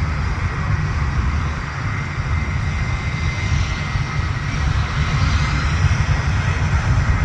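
Jet airliner engines running: a steady rumble with a faint high whine, growing slightly louder in the second half.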